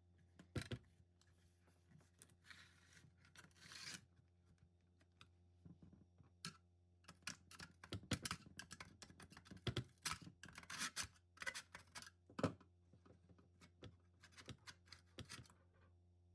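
Close handling sounds: scattered clicks, taps and scrapes, with a stretch of rough scraping or tearing about three seconds in and denser clicking and scraping in the second half, over a faint steady hum.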